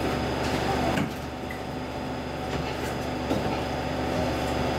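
Interior sound of a Saltsjöbanan Class C10 electric train: a steady hum and rumble from its electrical equipment. There is a single knock about a second in, after which the sound is quieter.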